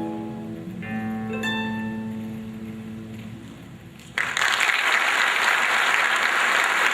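Acoustic guitar's closing chords ringing out and fading, then audience applause breaking out sharply about four seconds in.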